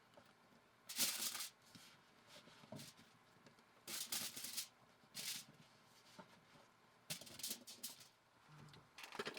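Several short rustling, scraping bursts, each about half a second long: about a second in, twice around four seconds, near seven seconds and again near the end.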